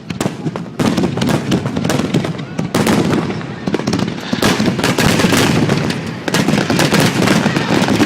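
Aerial fireworks going off in a dense, rapid barrage: many overlapping bangs and crackles with hardly a gap between them, thickening from about three seconds in.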